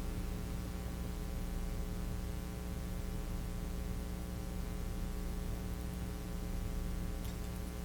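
Steady electrical mains hum: a low, unchanging drone with a ladder of evenly spaced overtones, with no break in it.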